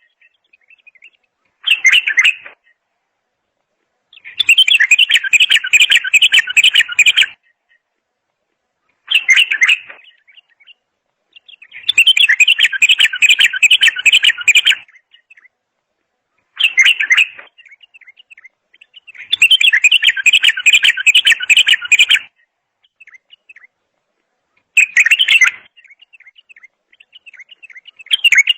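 A songbird, which the title calls a bulbul, singing loud, fast trilled phrases. A short phrase of under a second alternates with a longer one of about three seconds, with pauses between, the pattern repeating about every seven and a half seconds.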